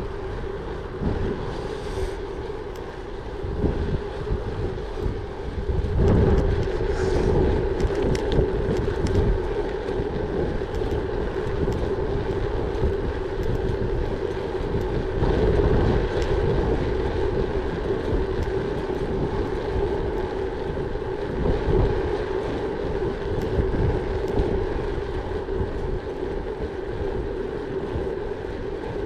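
Gravel bike riding along, its tyres rolling over the surface with a steady hum, and wind buffeting the microphone in gusts.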